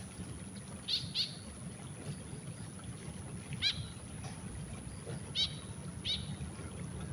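White-breasted woodswallow giving short, harsh calls: two close together about a second in, then single calls every second or two.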